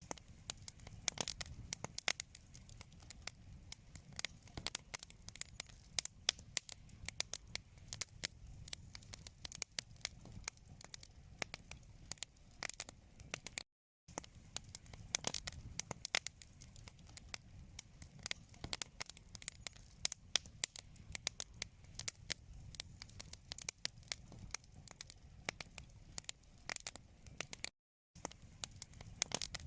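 Wood fire in a fireplace crackling, with many sharp irregular pops over a low steady rumble of flames. The sound cuts out completely for a moment twice, about halfway through and near the end.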